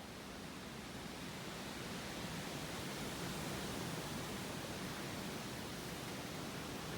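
Steady, even hiss of outdoor background noise, with no distinct events or calls in it.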